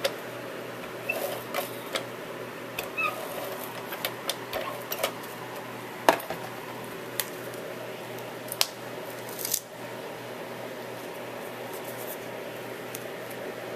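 Scattered light clicks and taps of paper and small cut pieces being handled and pressed onto a cardstock page, with one sharper click about six seconds in. The last few seconds hold only a steady low room hum.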